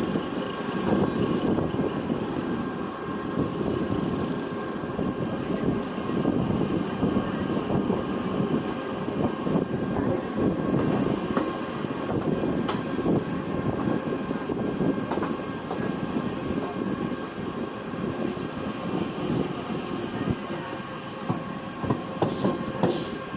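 Train passing close by: a steady rumble of wheels on rail with a fast clatter and a faint steady whine. Short high squeals come near the end.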